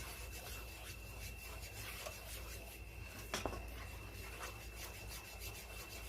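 A utensil stirring and scraping in a pan of thickening cream sauce, with one sharp knock a little past halfway, over a faint steady high tone.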